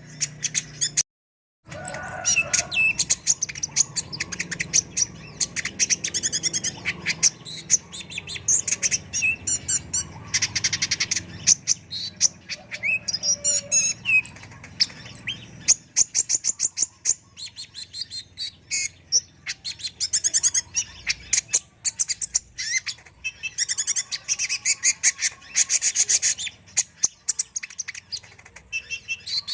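Sunbird ('kolibri ninja') singing a long, rapid, high-pitched song of fast trills and chirps. There is a brief cut to silence about a second in.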